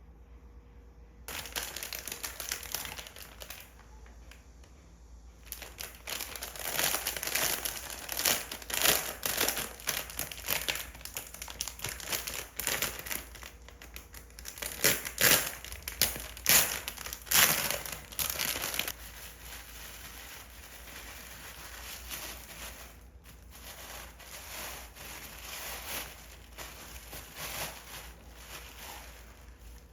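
Packaging being handled during an unboxing: wrapping crinkling and crumpling in dense, crackly bursts that start about a second in, grow loudest midway and ease off toward the end.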